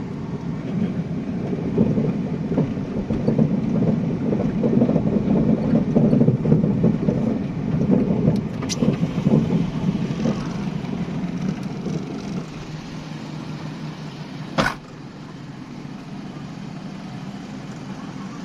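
Car interior noise while driving: a steady low rumble of engine and tyres on the road that eases off after about thirteen seconds, with a sharp click about three-quarters of the way through.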